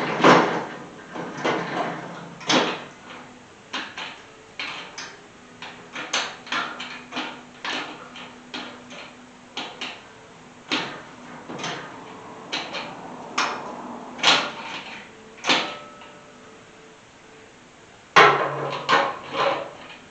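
A long run of irregular knocks and clanks, several to a few seconds apart, with a heavier cluster near the start and again near the end.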